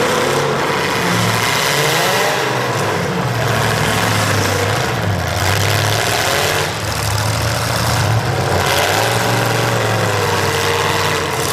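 Demolition derby car engines running and revving, with pitch rising and falling a few times.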